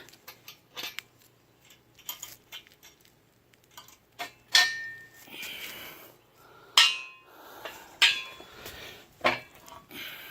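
Metal clicks and clanks from a steel engine hoist as a leg's cotter pin and linch pin are pulled and the leg is swung down and pinned in place. Light scattered clicks in the first half, then four louder clanks, some ringing briefly, in the second half.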